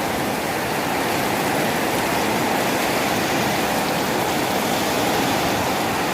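Heavy storm rain pouring down in strong wind, a steady, even hiss with no distinct drops or gusts standing out.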